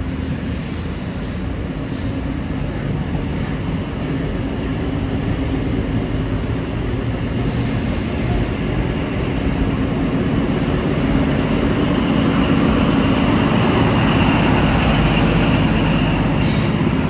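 XPT diesel-electric passenger train departing, its leading power car's diesel engine and the passing carriages making a steady low drone that grows gradually louder.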